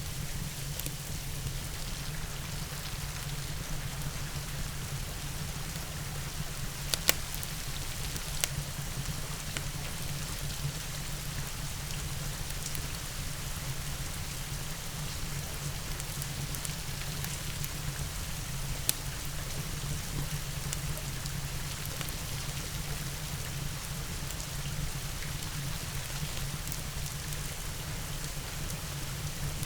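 Steady rain falling, with a wood fire crackling: a few sharp pops stand out, the loudest about seven seconds in, another a second later and one more near nineteen seconds.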